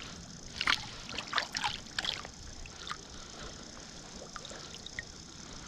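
A freshly caught brown trout struggling in the water, giving several short splashes over the first two seconds, then the steady rush of the river.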